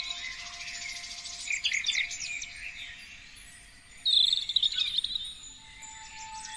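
Several songbirds singing and chirping. In the first second comes a fast rattling trill, then a cluster of short chirps, and about four seconds in a loud rapid warbled phrase that repeats one heard just before.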